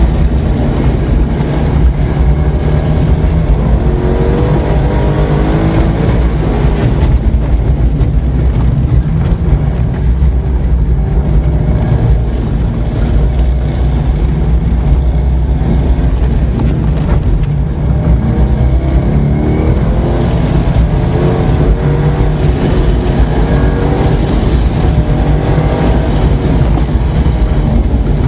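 2004 Corvette C5 Z06's LS6 V8 engine, heard from inside the cabin, pulling hard in second gear on an autocross run, its revs rising and falling again and again as the driver accelerates and lifts between the cones.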